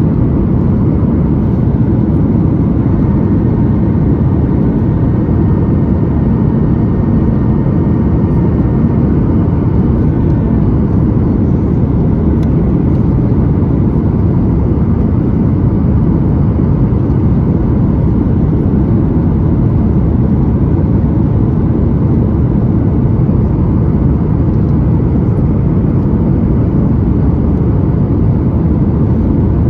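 Steady cabin noise of a Boeing 737-9 MAX in flight: a loud, even, low rumble of airflow and its CFM LEAP-1B engines, with a faint steady whine above it.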